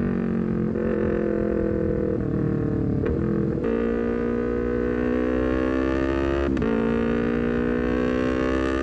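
Honda CBR250RR's engine through a full-system R9 header and short Leovince GP Corsa carbon silencer, pulling under throttle with its pitch rising steadily. The note jumps about a few times during shifts, and there is a sudden drop about six and a half seconds in at a quickshifter upshift.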